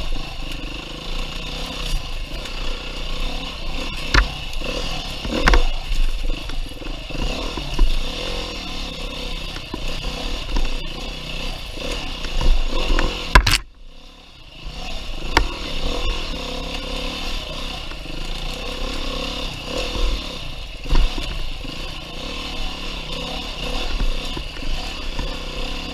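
Beta 390 RR-S single-cylinder four-stroke dirt bike being ridden hard on single track, its engine running under changing throttle, with clattering knocks from the bike over rough ground. About halfway through a sharp knock is followed by the engine going much quieter for about a second before it picks up again.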